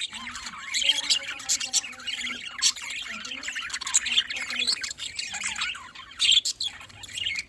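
A flock of budgerigars chirping and squawking, many short calls overlapping continuously.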